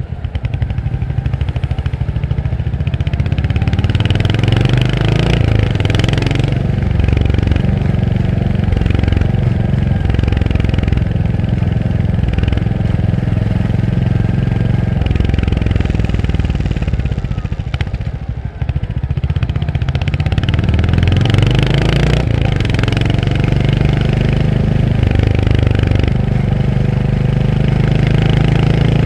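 Royal Enfield Hunter 350's single-cylinder engine under way, its pulsing exhaust note rising and falling as the rider works the throttle through the gears. About two-thirds of the way in it drops off the throttle briefly, then pulls away again.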